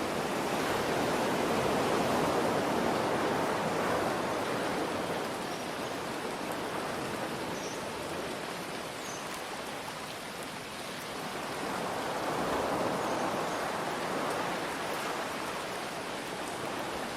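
Ocean waves washing in and easing back, swelling twice, under a steady hiss of rain.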